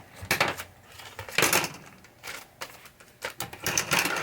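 Plastic pinball drop targets being handled and set down on a workbench: a string of sharp clicks and short clattering rattles, the loudest about one and a half seconds in and several more near the end.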